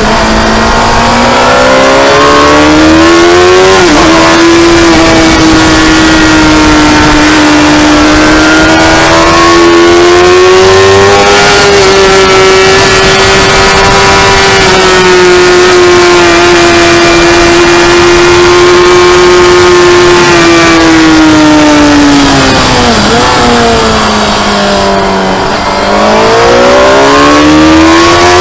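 Motorcycle engine running hard at high revs on a race track, very loud. It upshifts about four seconds in, holds high revs along a long straight, comes down through the gears with the revs falling about three quarters of the way through, then accelerates again near the end.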